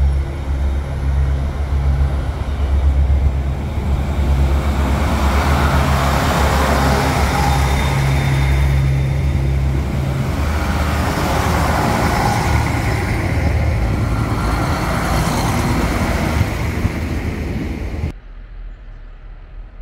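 Diesel passenger train running at a station platform: a steady low engine rumble under a rushing noise that swells and fades. The sound cuts off suddenly near the end.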